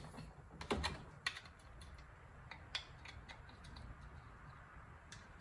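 A handful of light, scattered clicks and taps from hands and tools handling a chainsaw while starting to take its muffler off.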